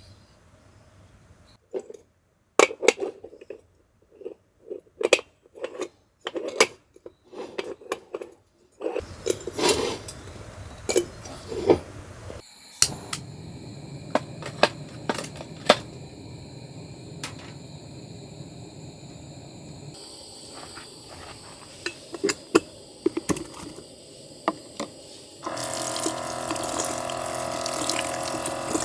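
Scattered clicks and knocks of things being handled, with short silent gaps between them. About three-quarters of the way through, a louder steady rush of running water starts.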